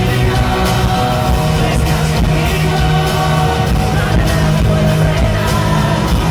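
Live amplified pop-rock band playing a song, with a steady drum beat, guitar and long held notes, and singing over it.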